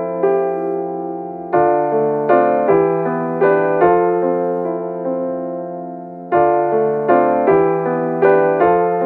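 Background solo piano music: slow, gentle melody notes struck in short runs and left to fade, over a held low note.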